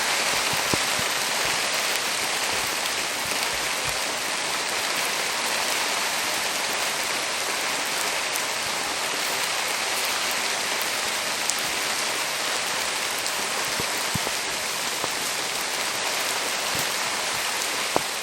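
Steady rain falling, with a wood campfire giving an occasional sharp crackle.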